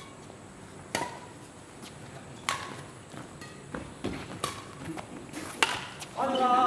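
Badminton rally: a string of sharp racket-on-shuttlecock hits, about five of them roughly a second apart, some with a brief ping from the strings.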